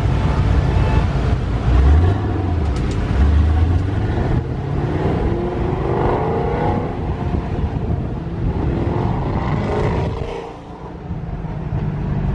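Car engine under acceleration, its pitch rising in two pulls over a steady low drone, easing off briefly near the end.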